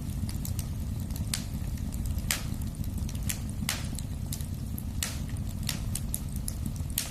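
Fire burning in a fireplace: a steady low rumble with sharp pops and crackles, about one a second, some in quick pairs.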